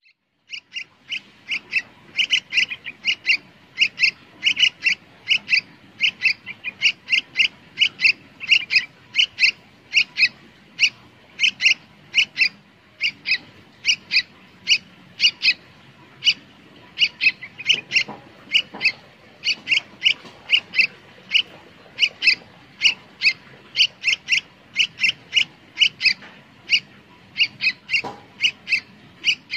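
A bird calling: short high chirps repeated about three times a second, on and on.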